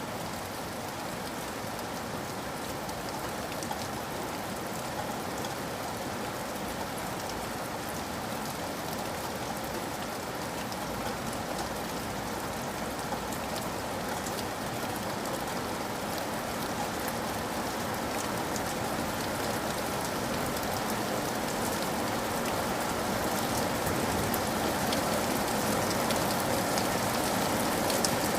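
Steady rain with a fine patter of drops, growing gradually louder toward the end.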